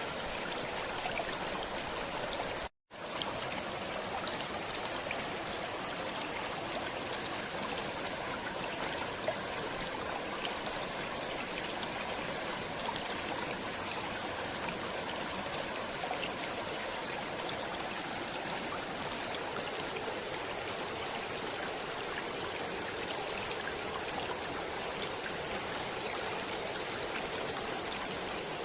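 Flowing stream water running steadily, with a split-second cut to silence about three seconds in.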